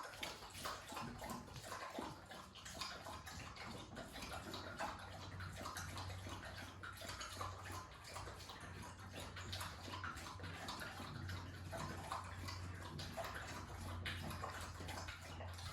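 Water splashing and sloshing in a dense run of small crackles, over a steady low hum.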